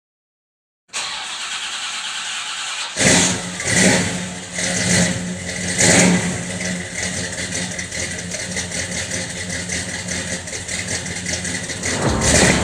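A car engine starts about three seconds in, after a steady hiss. It is revved sharply three or four times, then settles into a steady idle, with one more rev near the end.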